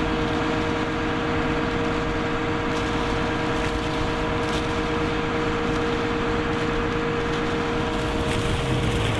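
A fishing boat's engine running steadily, with a constant whine sitting over the engine noise.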